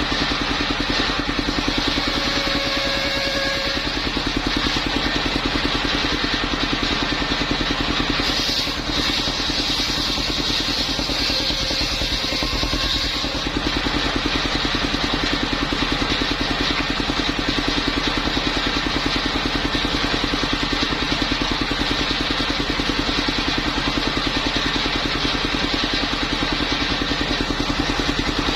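Engine of a mobile circular sawmill running steadily, with a fast even beat.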